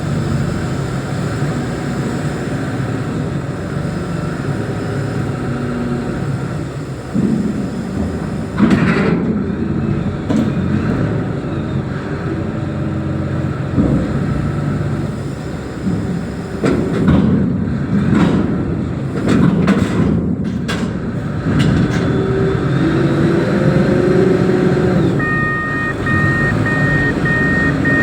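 Reach stacker's diesel engine running under work, with several loud metal knocks and bangs a third of the way in and again past the middle. Near the end a reversing alarm starts beeping steadily.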